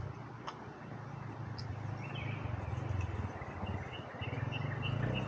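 A bird calls with a short high note, repeated about three times a second, from about two seconds in. Under it runs the steady rush of flowing river water.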